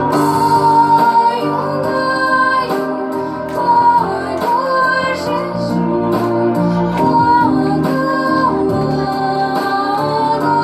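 A song: a woman's voice singing held, gently gliding notes over steady instrumental accompaniment.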